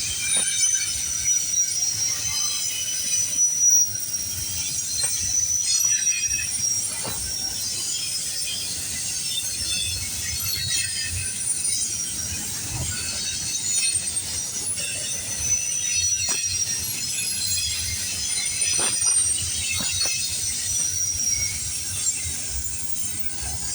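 Freight cars of a CPKC train rolling past. The wheels squeal in thin high tones that drift slowly in pitch, with irregular sharp clacks of wheels over the rails and a low rumble underneath.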